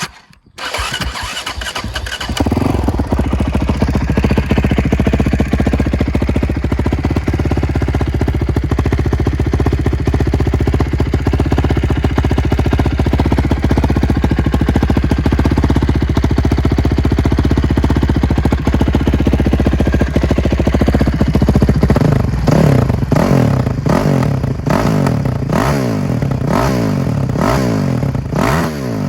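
2006 Honda CRF450X single-cylinder four-stroke with an Akrapovic exhaust starting up: it catches almost at once, settles into a steady idle, and near the end is revved repeatedly in short throttle blips.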